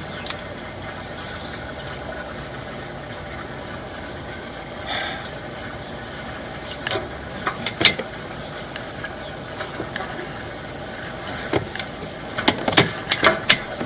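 Sewer inspection camera head knocking and clattering against something inside a PVC drain line, a few sharp knocks and then a quick run of clatter near the end that sounds like a can, over a steady engine-like hum.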